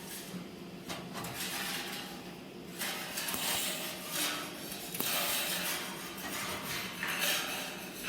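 Steel stove parts clattering and scraping while being worked, with a hissing noise that grows stronger from about three seconds in.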